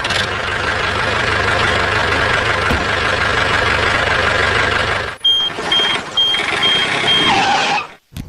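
A vehicle engine running loudly for about five seconds, then after a brief break running again with a reversing alarm beeping steadily, about five beeps in two seconds, before both cut off abruptly.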